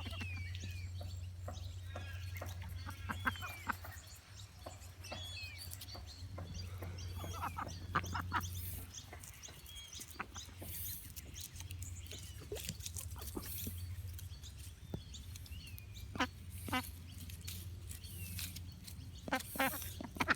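Ducks and other lake waterbirds calling: scattered quacks, chirps and clucks, with clusters of louder calls at several points, over a steady low hum.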